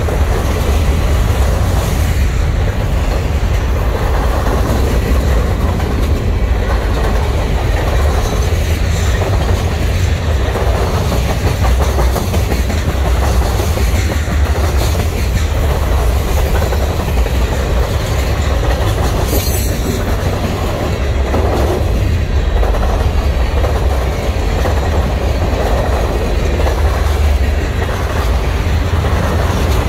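Freight cars of a mixed freight train rolling past at trackside: a steady heavy rumble with the wheels clacking rhythmically as each truck goes by.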